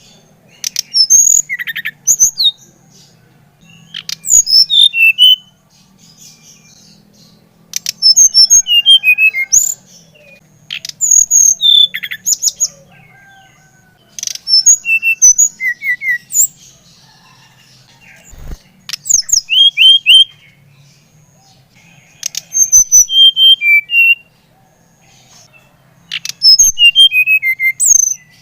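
Sikatan rimba dada coklat (SRDC), a jungle flycatcher, singing in repeated phrases of rapid, high, falling whistled notes, one every few seconds, with a faint steady low hum underneath.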